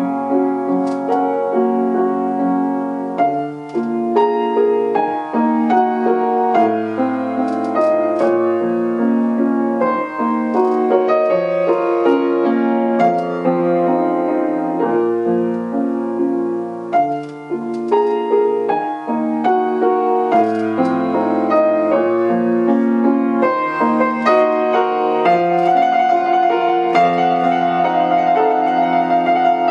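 Solo acoustic piano playing a classical piece, dense with running notes, with a long fast trill high in the right hand near the end.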